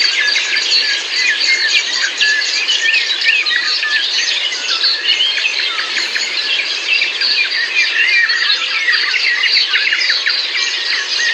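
Dense chorus of many small birds chirping and calling at once, short overlapping notes and quick pitch glides, over a steady hiss of outdoor background noise.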